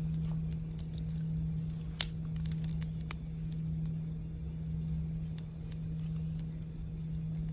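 A singing bowl's low hum held steadily, slowly wavering in loudness, over a crackling campfire with scattered pops, one sharp pop about two seconds in.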